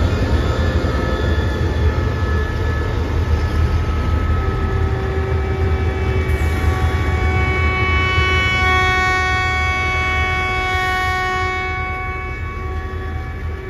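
A diesel train at close range with a steady heavy engine rumble. A cluster of steady high-pitched tones from the train builds up from about a third of the way in and mostly fades near the end, as the sound eases off.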